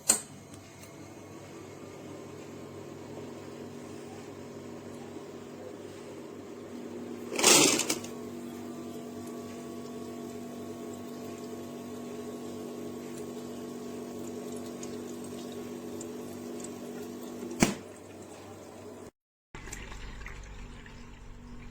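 Countertop ice cube maker running: a steady motor hum with a watery, pump-like sound. A brief loud rushing burst comes about seven seconds in and a sharp click near the end, followed by a short break in the sound.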